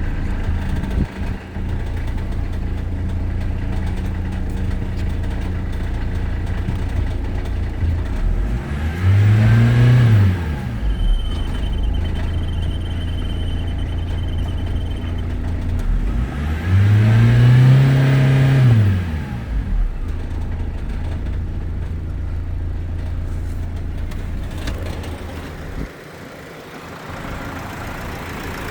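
Renault 2.0 dCi M9R four-cylinder turbodiesel idling steadily and revved up and back down twice, about a third and about two thirds of the way in, during an engine test of the used unit.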